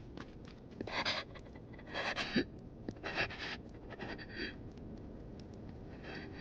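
A person panting hard, with heavy breaths about once a second, then a pause before another breath near the end.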